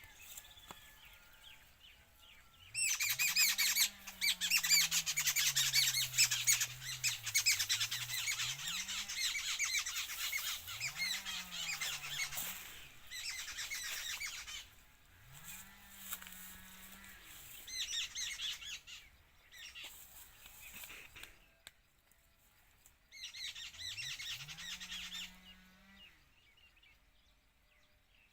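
Many small birds chirping and squawking at once, in long busy bursts with short pauses between. A low tone rises and falls beneath several of the bursts.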